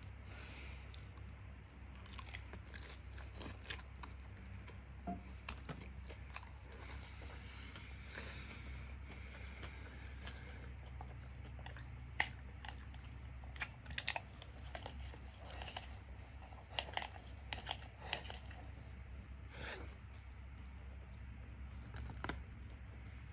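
Close-up chewing and crunching of Japanese fried chicken (karaage), with irregular crisp clicks from biting into the fried coating, over a steady low hum.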